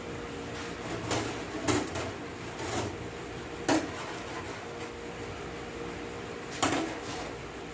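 Metal transmission parts clinking and knocking as they are handled and set down during assembly: a handful of sharp clinks spread irregularly, over a steady fan hum.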